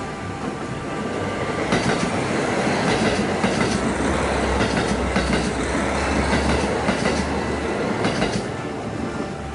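Limited Express Okhotsk diesel train passing close by on the other track, its wheels clattering over rail joints in a run of knocks and its engines droning low. The sound swells up about two seconds in and eases off near the end.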